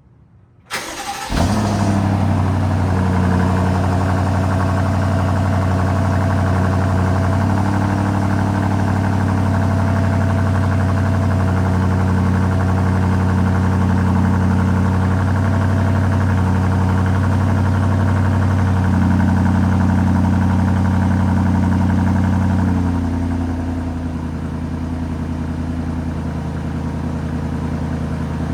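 2020 BMW X5 50i's twin-turbo V8 cold start: a brief crank about a second in, the engine catches and holds a steady high cold idle through the stock exhaust. After about twenty-three seconds the idle drops to a lower, quieter speed as the fast-idle warm-up eases off.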